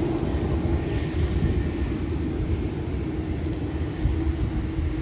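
Steady drone of a twin-propeller Beechcraft aircraft's engines, one even tone over a low rumble.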